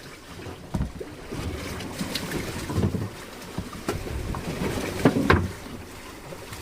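Small fishing boat out in choppy sea, its hull slapping the waves with irregular heavy thumps over a low rumble, while strong wind buffets the microphone.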